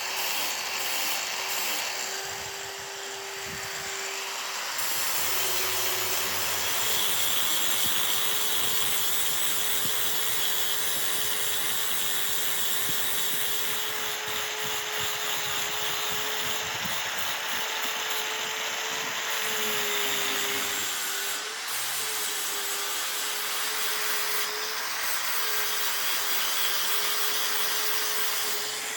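Electric power tool running steadily while it works material, with a continuous rasping noise. Its motor hum dips briefly in pitch several times as it takes load.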